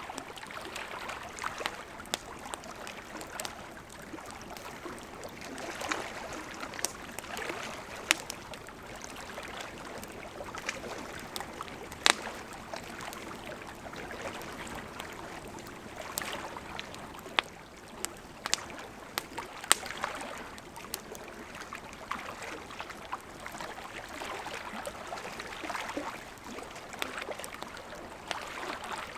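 Wood campfire crackling with scattered sharp pops, a few of them much louder, over the steady rush of a gently flowing river.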